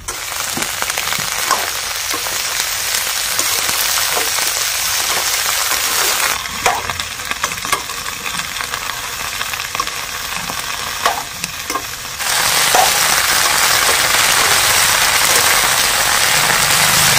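Sem bean pods sizzling as they fry in hot oil in a metal kadhai, stirred with a metal ladle that clinks against the pan a few times. The sizzle grows louder about twelve seconds in.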